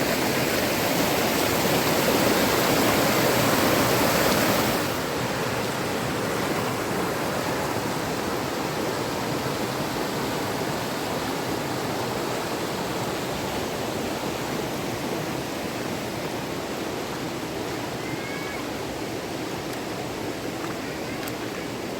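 Fast river water rushing steadily. It is louder for the first few seconds, then drops off abruptly about five seconds in and carries on more evenly.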